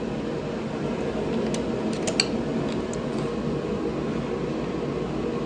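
Steady hum of a shop fan or air conditioner, with a few light clicks about one and a half to two seconds in.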